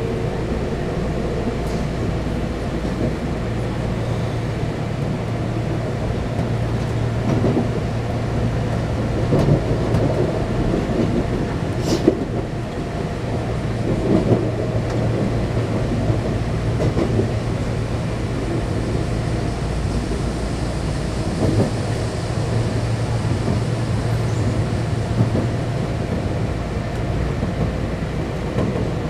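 Inside a Kintetsu electric train running on Hanshin Railway track: steady motor and wheel running noise as it pulls out of a station and runs on, with a sharp click about twelve seconds in.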